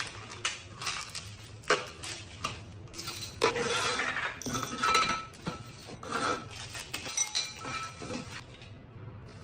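Dishes and cutlery clinking: a string of sharp clicks and knocks at irregular intervals, a few of them ringing briefly.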